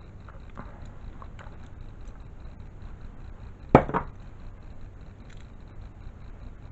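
A few faint small clicks, then two sharp knocks a quarter second apart about halfway through, the first the louder, as of a hard object struck or set down on a surface.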